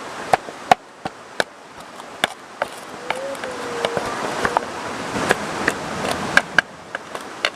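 Stone pestle knocking and grinding in a stone mortar (ulekan and cobek) as sambal terasi is pounded: irregular sharp knocks over a steady rush of river water.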